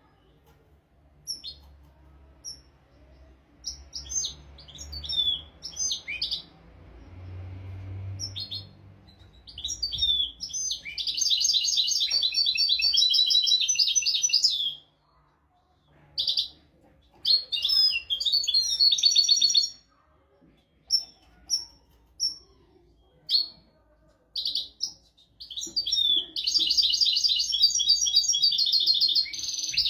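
European goldfinch singing: quick bursts of high twittering notes, broken by two long, rapid trills, one about ten seconds in and another near the end.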